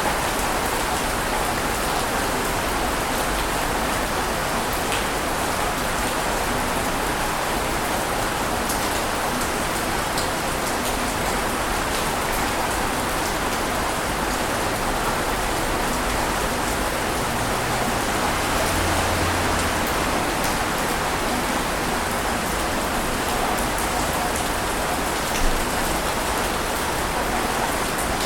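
A steady, even wash of water noise with faint scattered ticks and no distinct rise and fall of breaking waves. A small knock comes near the end.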